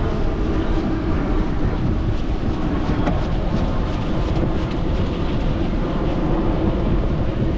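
Wind buffeting the microphone and the rolling noise of a bicycle being ridden, a loud steady rush with a faint steady hum underneath.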